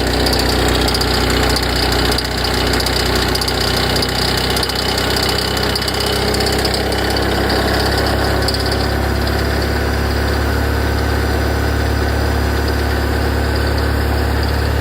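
Ferrari F355 V8 idling after start-up, with a light, regular ticking from the front of the engine that fades out about eight or nine seconds in. It is lighter than tappet noise, and the owner suspects an alternator or water-pump tensioner bearing, cause unknown.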